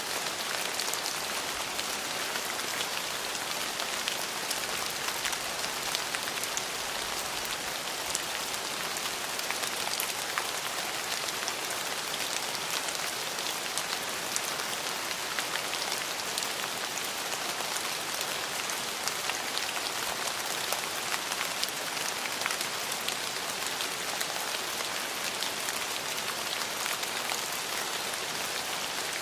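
Steady rainfall: an even hiss of rain with many individual drops ticking sharply on a hard surface, without any thunder.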